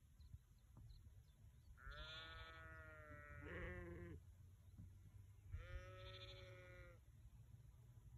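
Sheep bleating: three bleats, a long one about two seconds in, a shorter wavering one right after it, and another long bleat about five and a half seconds in.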